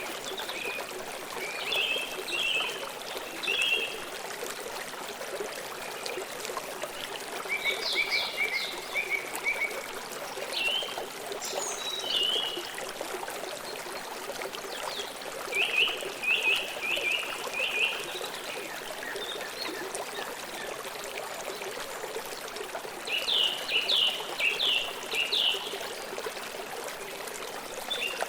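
River water flowing steadily, with birds chirping in short runs of quick notes every few seconds.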